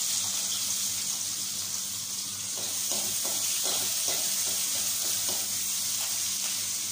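Chopped onion frying in hot oil in a kadai: a steady high sizzle. A few light taps and rustles come around the middle as more pieces are dropped in.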